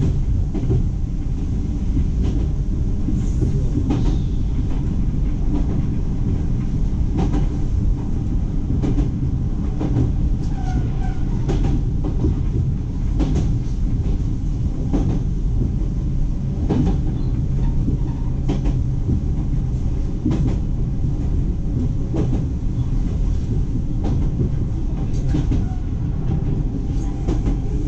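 Iga Railway electric train running at speed, a steady low rumble with a sharp click every second or two as the wheels cross rail joints.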